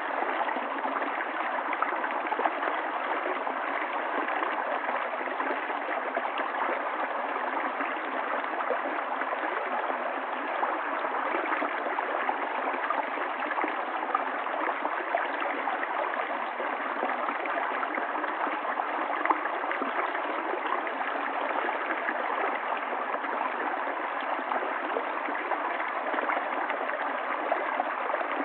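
River water flowing and splashing, a steady rushing babble with small gurgles and splashes throughout.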